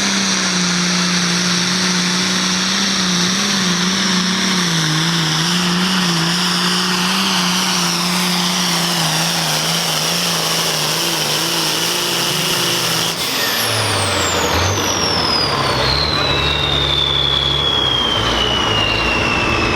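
Turbocharged super pro farm pulling tractor running at full throttle under load, its engine note sagging slowly and wavering as it pulls the sled. About two-thirds of the way through the throttle is cut: the engine drops to a low rumble and the turbo winds down in a long, falling whistle.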